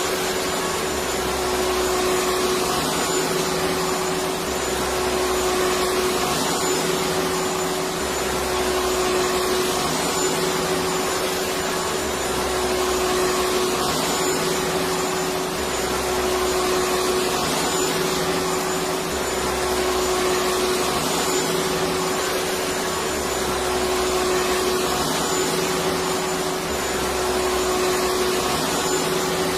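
Electric vacuum cleaner running steadily, an even rushing noise over a constant hum, with a low throb that comes and goes about every two seconds.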